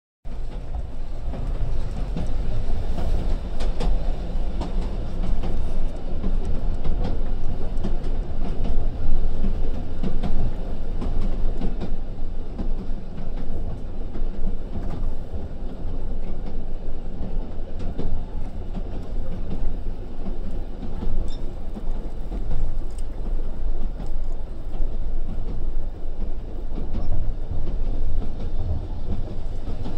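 Railway train running along the track: a steady, loud rumble of wheels on rails with scattered faint clicks.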